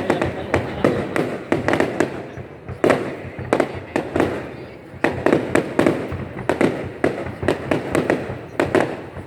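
Fireworks going off in rapid, irregular volleys, several sharp bangs a second, with crackling between them.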